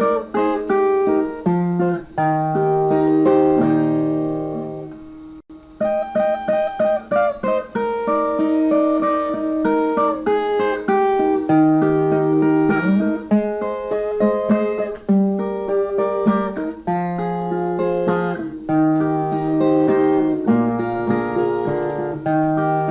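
Instrumental break between sung verses: a Brazilian viola playing a melody of plucked notes over held bass notes. The music fades and cuts out briefly about five seconds in, then picks up again.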